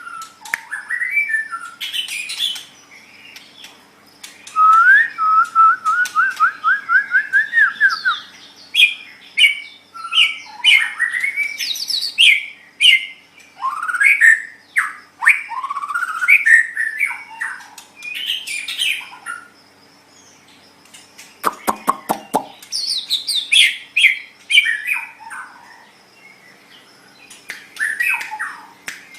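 White-rumped shama (murai batu) singing a varied series of loud whistled phrases with rising and falling notes. About five seconds in there is a quick run of repeated notes climbing slightly in pitch, and a little past the middle comes a short harsh rattle of rapid clicks. A faint steady low hum runs underneath.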